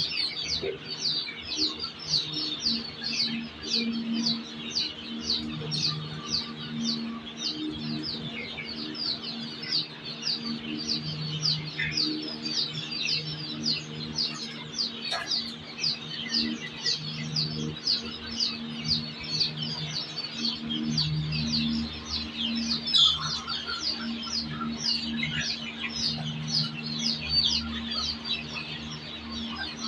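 Many birds chirping continuously, a steady stream of short high chirps about two a second, with lower repeated calls underneath.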